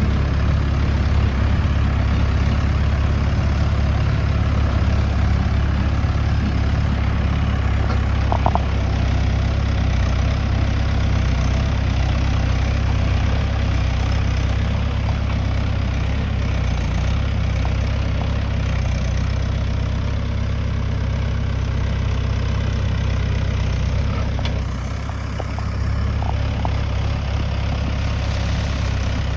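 Mahindra tractor diesel engine running steadily at a low, even speed, with a brief dip in loudness near the end.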